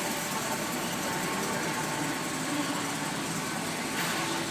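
Chevrolet Express cutaway truck's engine idling steadily, a constant even hum.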